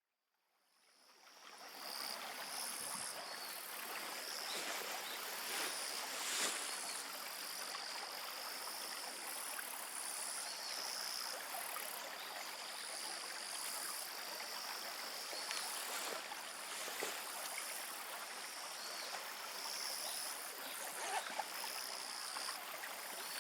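Outdoor ambience fading in over the first couple of seconds: steady flowing water, with high-pitched trilling calls that come and go above it and a few faint clicks.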